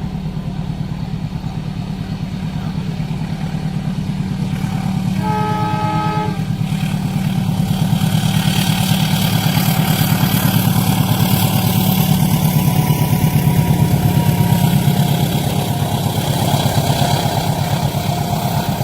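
A train approaching and passing a level crossing, over a steady low engine drone. A horn sounds once for about a second, about five seconds in. Then the rushing rumble of the train builds and stays loud through the rest.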